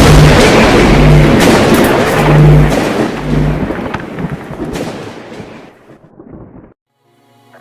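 Loud, dense rumbling noise with a few sharp cracks and a low tone pulsing about once a second, fading away over the last few seconds and cutting off near the end.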